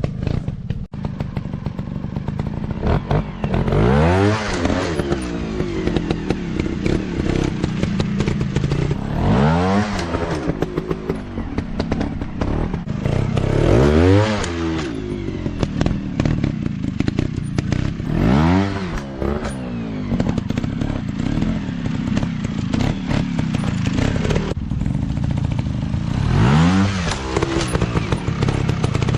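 Off-road dirt bike engine running, revved about five times, each rev climbing and falling back in pitch over a second or so, with scattered knocks and clatter.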